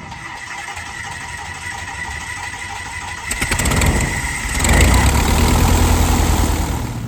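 Small aircraft's piston engine starting: it runs quietly at first, then picks up about three seconds in and settles into a louder, deeper steady run from about five seconds.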